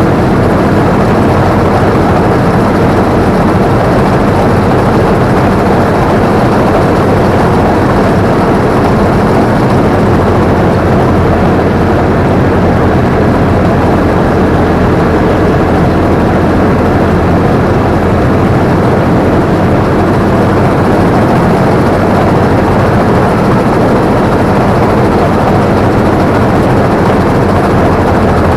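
Combine harvester running steadily from the operator's seat: a loud, even machine noise with a low engine hum that does not change.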